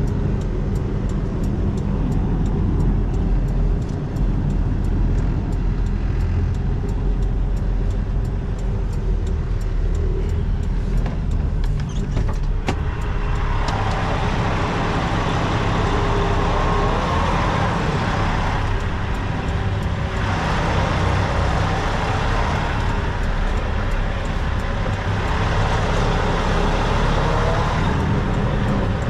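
Semi truck's diesel engine running at low speed while reversing the tractor-trailer into a dock, heard from inside the cab. From about 13 seconds in the engine is throttled up in three stretches, with light regular ticking under it in the first half.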